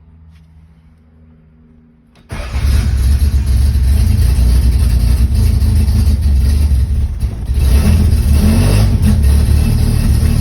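Toyota 3T-C four-cylinder engine with a 38 Weber carburettor and a mild cam, cold-started: it fires suddenly about two seconds in and keeps running at a fast cold idle, heard from inside the car. It gets louder again about eight seconds in.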